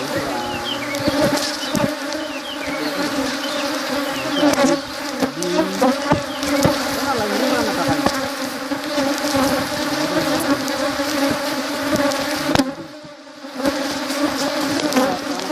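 Honeybees buzzing in a dense, steady drone, with single bees' pitch rising and falling as they fly close past, and scattered clicks. The buzz drops away briefly about thirteen seconds in, then returns.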